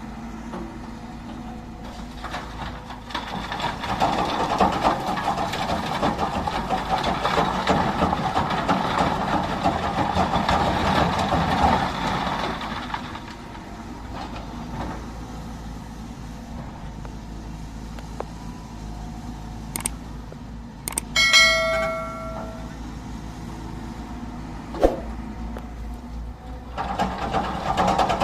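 Heavy diesel machinery running, with the engine working harder and louder for several seconds before settling back to a steady drone. About two-thirds of the way in, a brief pitched honk sounds, and a sharp click follows a few seconds later.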